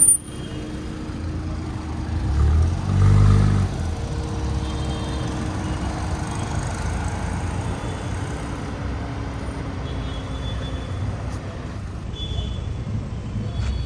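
Car driving along, with steady engine and road noise and a louder engine surge between about two and four seconds in.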